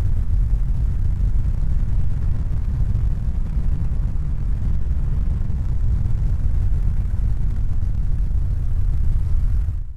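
A steady, deep rumble that fades out near the end.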